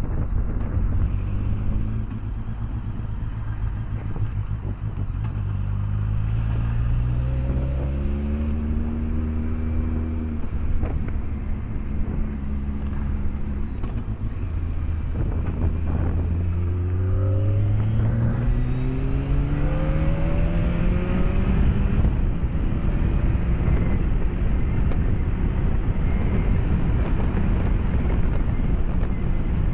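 BMW K1200S inline-four engine accelerating on the road, its note climbing in pitch twice, once about five seconds in and again about fifteen seconds in, over a steady rush of wind noise.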